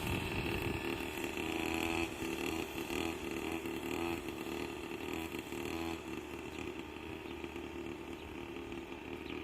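Small 49cc mini quad bike engine running at a steady low throttle, gradually fading as the quad moves off.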